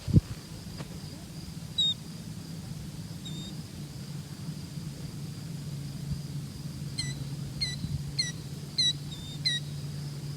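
Sandpipers calling: short, high, down-slurred peeps, one or two early on and then a quick series of about five near the end, over a steady low rumble.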